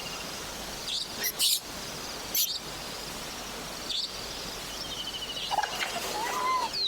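Forest ambience: a steady hiss with scattered short, high bird chirps in the first half, then a trill and a warbling bird call near the end.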